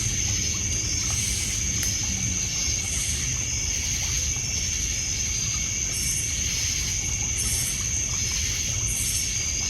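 Night insect chorus: crickets trilling in one steady high note, with shorter, higher chirps recurring every second or two. Underneath, water lapping at the shore as a low wash, and a few faint crackles from a wood fire.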